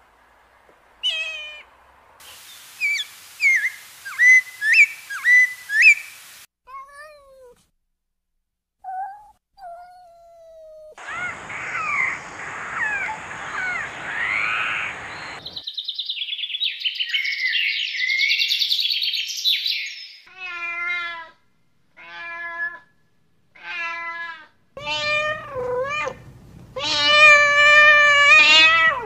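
A string of short animal sound clips: bird chirping and tweeting, then a cat meowing several times in separate calls, the longest and loudest near the end.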